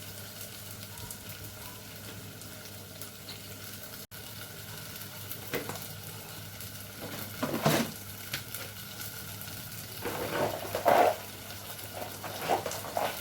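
Beef sizzling steadily as it browns in a pan. In the second half, cookware clatters and scrapes several times.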